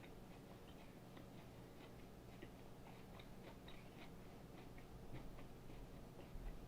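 Faint chewing of yellow cucumber: small crunches and mouth clicks, irregularly spaced, over a steady low hum.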